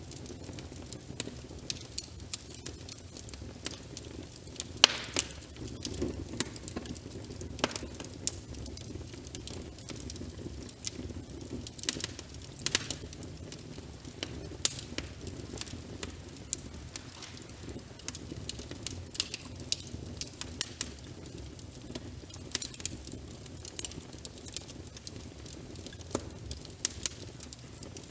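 Wood fire crackling, with frequent sharp, irregular pops and snaps, over a steady low rush of rain.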